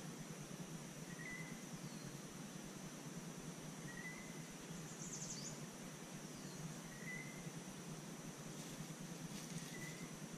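Faint outdoor ambience: a steady hiss with a thin, steady high tone over it. Distant birds call, with a short chirp about every three seconds and one brief high trill near the middle.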